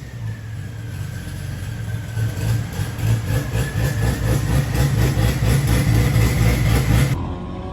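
The V8 of a 1,209-horsepower C8 Corvette running under load on a dyno. It grows steadily louder over about seven seconds, with a high whine that dips and then climbs, and cuts off abruptly near the end.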